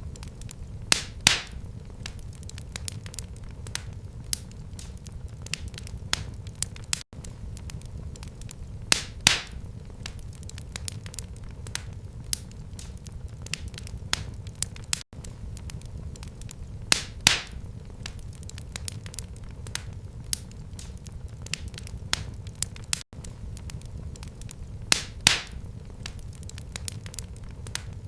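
Fire crackling in a fireplace: a steady low rumble of flames under many small crackles, with a louder pop or two recurring about every eight seconds.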